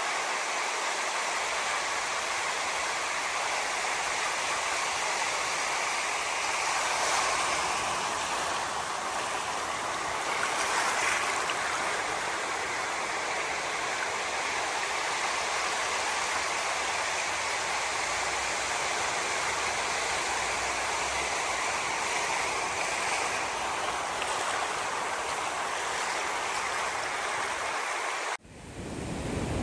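Steady rushing water, an even hiss with little low rumble. Near the end it cuts out abruptly and gives way to louder ocean surf with a deeper rumble.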